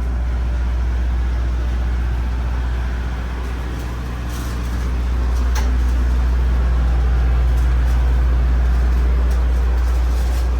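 Idling diesel locomotive engine: a steady low rumble that grows a little louder about five seconds in.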